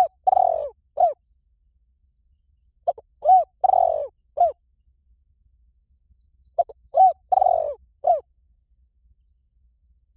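Spotted dove cooing: a phrase of about four coos (a short note, an arched coo, a longer drawn-out coo and a short closing note), repeated three times about every three and a half seconds.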